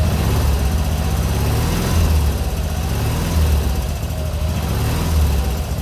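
K750 sidecar motorcycle's side-valve flat-twin engine idling, swelling slightly a few times, running during a charge test of its rewired electrics with an electronic regulator.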